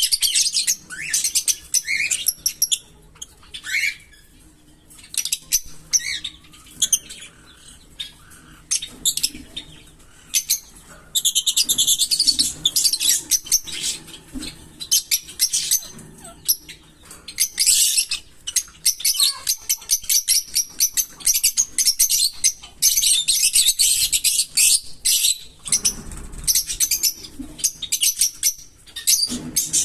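Small pet parrots chattering in fast, high chirps, in dense runs of several seconds with quieter gaps between.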